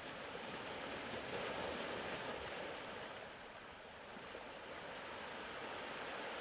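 Faint ocean surf washing softly, swelling about a second in, ebbing around the middle and rising again near the end.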